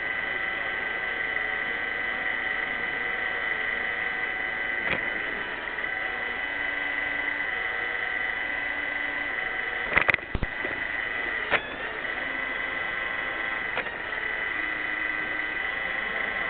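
iRobot Roomba 600 robot vacuum running: a steady motor whine with a few sharp knocks around the middle.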